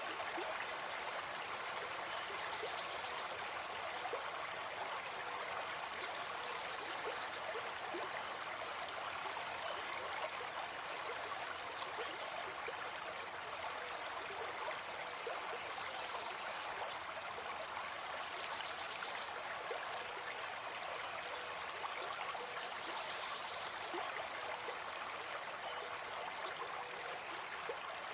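Gentle forest stream flowing, a steady babble of running water.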